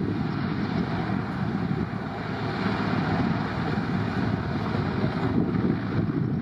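Steady roar of jet aircraft engines, a dense rumble without breaks.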